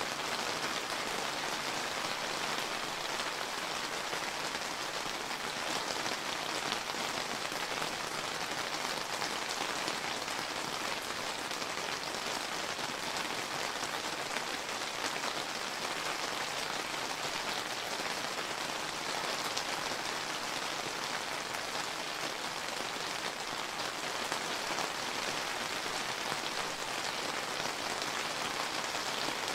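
Steady rain falling on surfaces, an even hiss with fine pattering drops.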